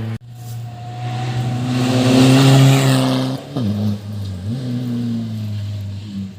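A rally car comes through at speed, its engine building to its loudest about two to three seconds in. About three and a half seconds in the engine note drops sharply as the driver lifts and brakes for the corner, then it climbs again as the car accelerates away and fades.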